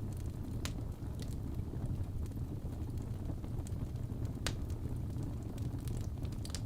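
Wood fire burning in a fireplace: a steady low rumble of flames with scattered sharp crackles and pops, the clearest about a second in and again about four and a half seconds in.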